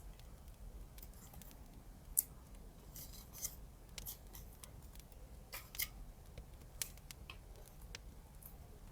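Scissors snipping through paper or tape: a scatter of short, crisp cuts at irregular intervals, with a low steady hum underneath.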